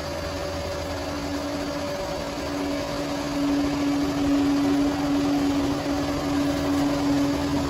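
Bulldozer's diesel engine running with a steady whine, growing somewhat louder about three seconds in.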